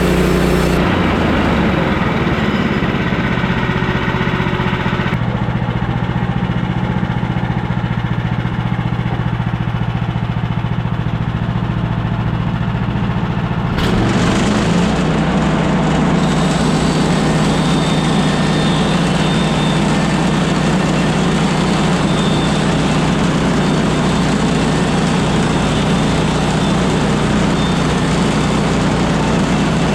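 Woodland Mills HM130MAX portable sawmill's gas engine running steadily, its tone changing abruptly about a second in and again around the middle.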